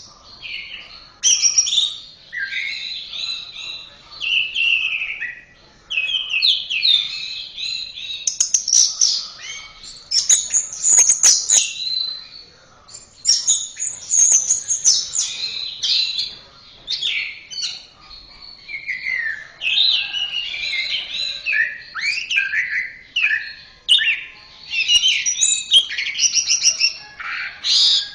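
Orange-headed thrush (anis merah) singing a long, varied song of quick, high whistled phrases and trills, broken by short pauses.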